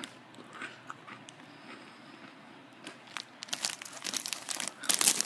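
Crinkling and rustling of a Smiths Scampi Fries snack packet, sparse at first and thickening from about three seconds in, loudest near the end.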